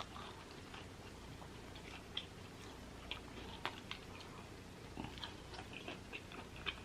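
A person chewing food close to the microphone, with scattered faint wet mouth clicks.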